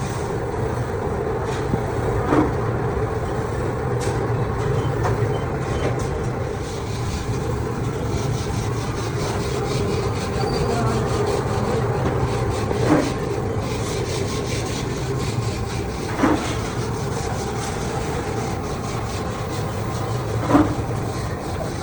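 Heavy machinery running with a steady low hum, broken by four short, sharp knocks spread through the stretch.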